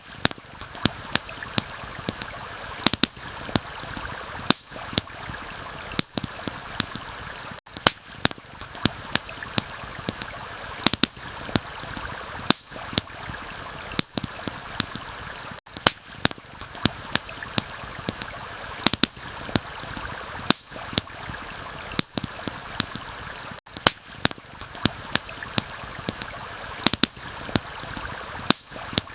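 Steady rushing of a stream, with frequent sharp pops and crackles of a wood campfire scattered irregularly over it.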